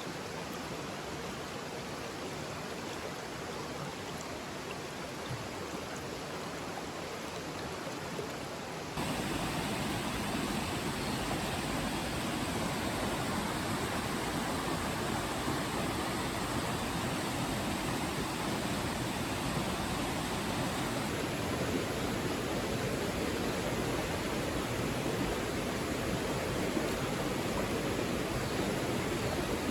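Rushing water of a mountain stream, a steady hiss that jumps suddenly louder and fuller about a third of the way in.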